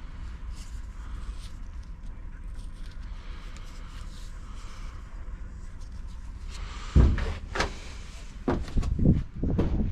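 Steady low rumble, then a sharp knock about seven seconds in and a cluster of clunks and knocks near the end, as of hard objects being handled or set down.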